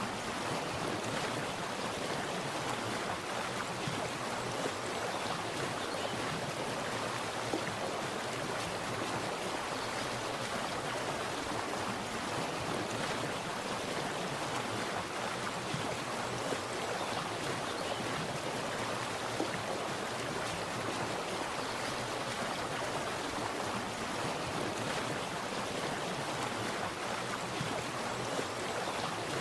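Water splashing and running steadily, an even rushing with no pauses or changes.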